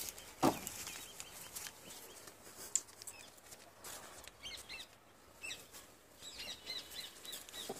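Birds chirping in short, scattered high calls, thickest in the second half. A single thump about half a second in and a sharp click near the middle stand out above them.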